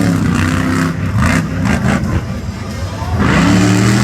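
Monster truck engine revving hard twice, its pitch rising and holding near the start and again about three seconds later, with a few short sharp cracks in between.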